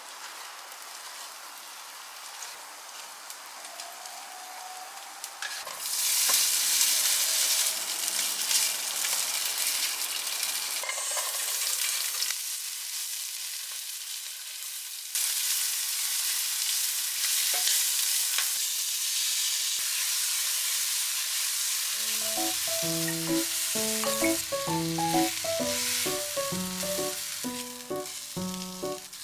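Food sizzling as it fries in a pan, a steady hiss that grows louder about six seconds in and changes level abruptly a few times. A light tune of background music comes in near the end.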